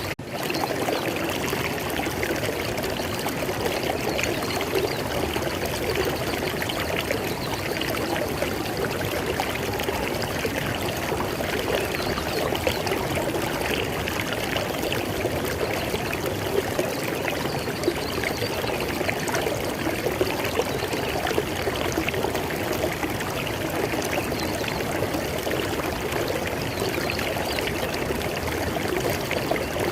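River water flowing in a steady, even rush, with a momentary dropout right at the start.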